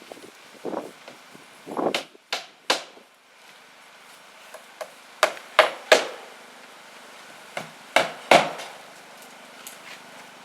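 Hammer blows on wood during timber construction, coming in three quick groups of about three strikes each.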